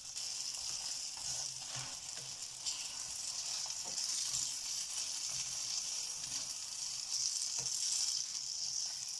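Frozen paratha sizzling steadily in a little cooking oil in a nonstick frying pan over a raised flame, with a few faint ticks as a plastic spatula presses it.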